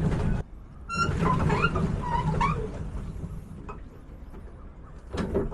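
Low rumbling outdoor noise, like wind on the microphone, broken off suddenly near the start. About a second in come a few short chirping calls.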